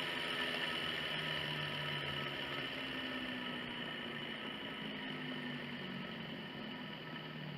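Electrolux washing-machine motor spinning down on the bench after being switched off, whirring with a hissing bearing noise that slowly fades and drops in pitch. The noise comes from a worn motor bearing.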